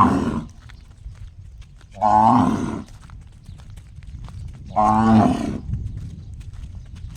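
A cow mooing in short, loud calls about every three seconds, each about a second long with a ringing, pitched tone that is likened to a gong. One call trails off at the start, and two full calls follow.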